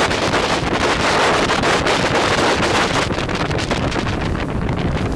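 Wind buffeting the microphone hard: a loud, ragged rushing with gusty thumps.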